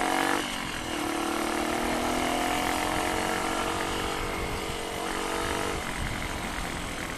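Rusi KR125 motorcycle engine under way: the revs dip briefly about half a second in, then climb steadily for about five seconds before the throttle eases off.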